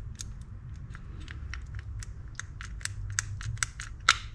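Small metallic clicks, several a second with one sharper click near the end, from the anti-reverse mechanism of a Daiwa Catalina 6500H spinning reel being worked by hand during reassembly.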